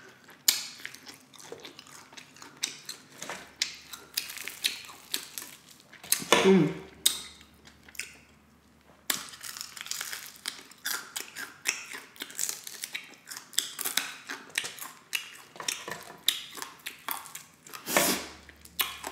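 Close-miked chewing and crunching of crispy fried chicken wings, a run of crackly bites and wet mouth clicks. A short hum of the voice comes about six seconds in and again near the end.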